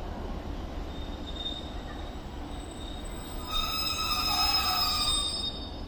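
A train moving through a station, with a steady low rumble throughout. About three and a half seconds in, a high steady wheel squeal with several tones sounds for about two seconds.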